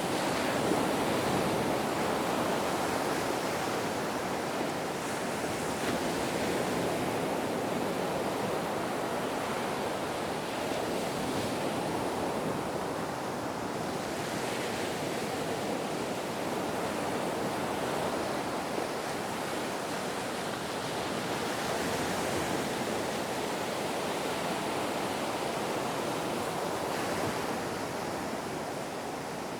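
Ocean waves breaking and washing on the shore, a continuous rush of surf that swells and eases gently, with some wind.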